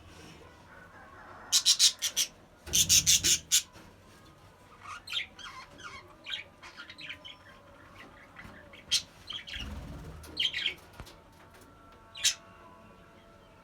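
Budgerigars chirping and squawking in quick runs of sharp calls, loudest about two and three seconds in, then softer scattered chatter and a few single calls near the end.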